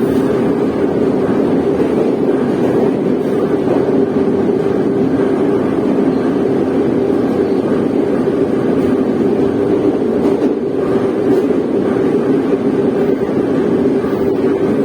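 Moscow metro train running through a tunnel, heard from inside the carriage: steady wheel-on-rail running noise with a steady hum from the train.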